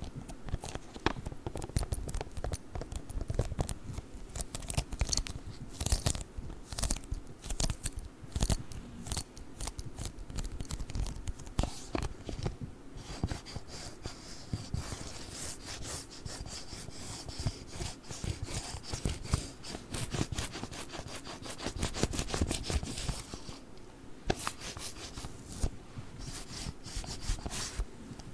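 Sticky lint roller tape worked close to the microphone, giving a dense, irregular run of sticky crackles and small tearing sounds.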